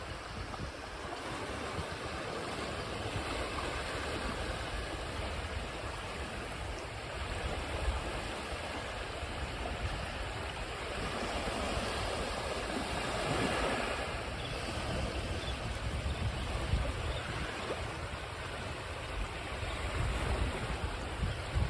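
Ocean surf washing ashore, a steady rush of breaking waves that swells once around the middle.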